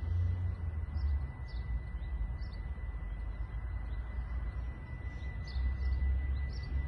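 Small birds chirping, short calls scattered every half second or so, over a steady low rumble and a faint steady high tone.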